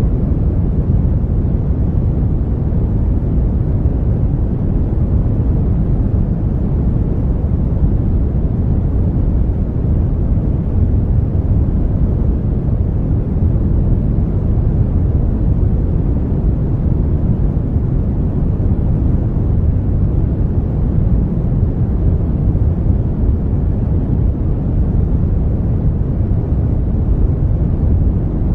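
Brown noise: a steady, even hiss weighted heavily toward the low end, a deep rumble-like wash with little treble and no changes.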